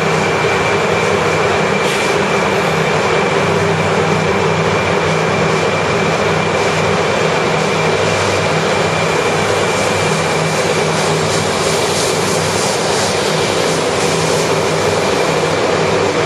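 200 series Shinkansen train pulling out of an underground station platform: a steady, loud running roar with a high steady whine and a lower hum, in the enclosed station.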